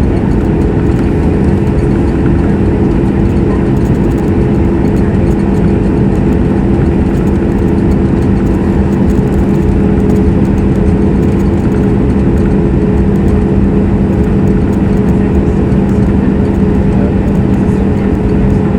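Boeing 737 MAX 8's CFM LEAP-1B jet engines running steadily, heard inside the cabin: a loud, even rush of engine and air noise with a few steady humming tones underneath.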